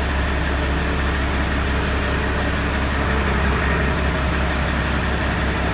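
International Harvester 1586 tractor's six-cylinder turbo diesel idling steadily, run to warm up and charge its batteries after a cold start.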